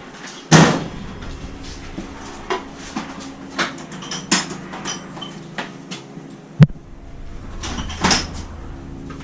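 Scattered metallic knocks and clanks of hand tools and parts being handled during motorcycle chain and sprocket work. There is one loud clank with a short ring about half a second in, a run of lighter clicks, a sharp knock after about six seconds and another clank near the end.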